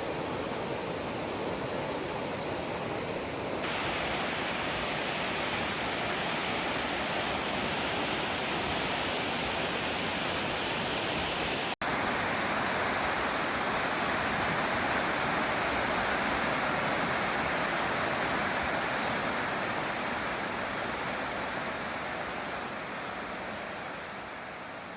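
Steady rush of falling water from a waterfall. It turns brighter and hissier about four seconds in, cuts out for an instant near the middle, and fades away near the end.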